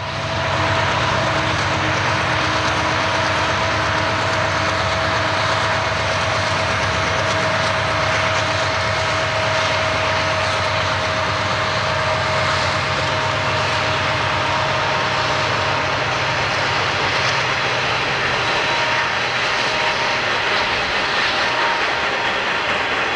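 Conrail diesel locomotives passing close, their engines running loud over the rumble of wheels on rail, with a steady whine that fades about halfway through; then freight boxcars roll by.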